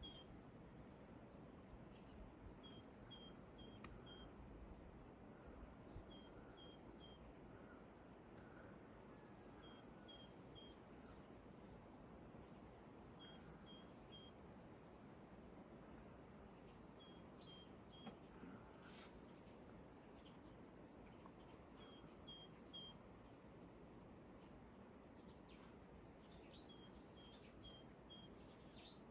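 Faint dawn ambience: a steady, high-pitched insect chorus, with a bird repeating a short phrase of about four quick chirps every three to four seconds.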